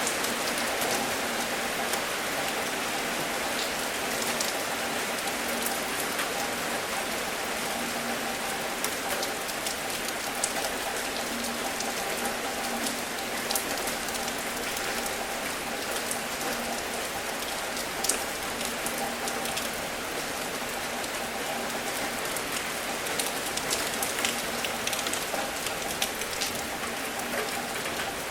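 Steady rain falling, an even hiss with a dense scatter of individual drops ticking through it; one sharper drop stands out about eighteen seconds in.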